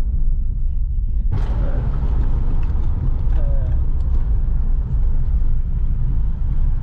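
A car's road and engine rumble heard from inside the cabin while driving. About a second in, a brighter rush of noise joins the low rumble and carries on.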